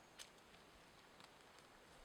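Near silence, with one faint sharp click shortly after the start and a few fainter ticks.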